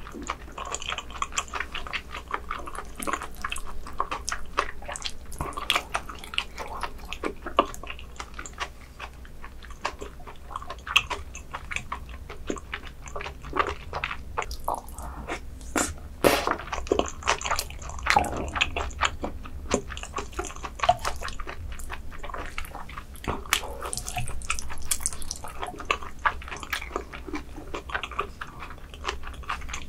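Close-miked eating sounds: wet chewing and sharp mouth clicks as a person eats rice mixed with seaweed, with a wooden spoon scooping from the dish now and then.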